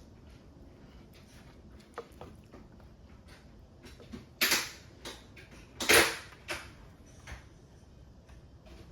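A few short, sharp knocks or clatters over a quiet background, the two loudest about four and a half and six seconds in.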